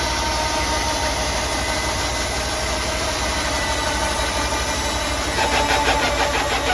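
Sawmill engine running steadily. About five seconds in, a higher tone with a fast pulsing joins it and the sound gets a little louder.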